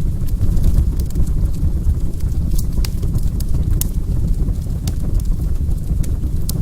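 Wood fire crackling in a fireplace: irregular sharp pops and snaps over a steady low noise of the burning.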